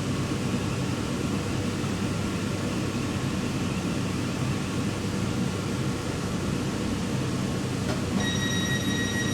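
Passenger train running at the platform with a steady rumble. About eight seconds in, a steady high-pitched tone starts over it.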